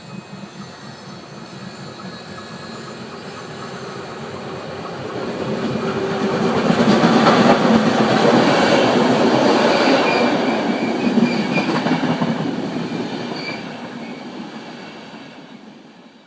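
Train passing through a station: the rumble and rush of wheels on rail build up, are loudest for several seconds as the train goes by, and then fade away. Thin high wheel squeal rides on top near the loudest part.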